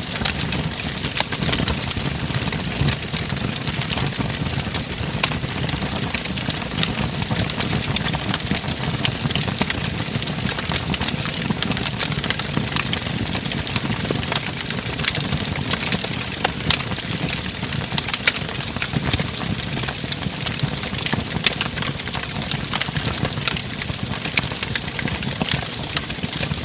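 Wood fire crackling in a fireplace: a steady low rush with many small sharp pops and snaps scattered irregularly throughout.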